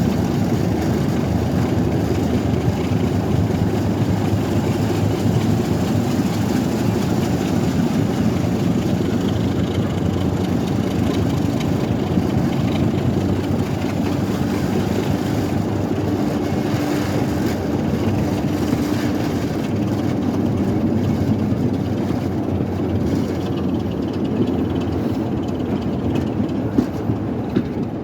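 Train running on the rails: a steady, continuous rumble.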